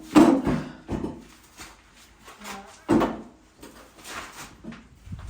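Heavy knocks and thumps as a heavy object with legs is lifted and set in place by hand. The loudest knock comes just after the start, with further knocks about a second in and about three seconds in, and handling noise in between.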